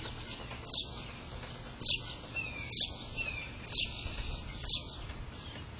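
A bird calling: a short high chirp repeated about once a second, five times, with a couple of fainter slurred notes in between.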